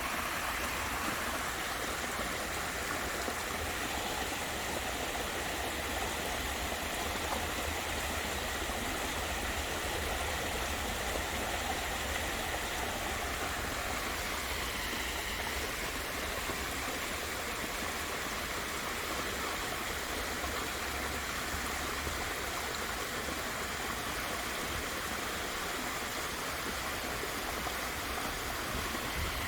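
Waterfall: water falling and rushing steadily, an even hiss without pauses.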